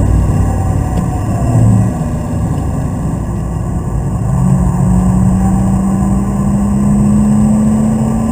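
BMW Z3 Coupé's straight-six engine heard from inside the cabin during hard track driving, with road noise. From about four seconds in it pulls steadily in one gear, its pitch rising slowly as the car gains speed.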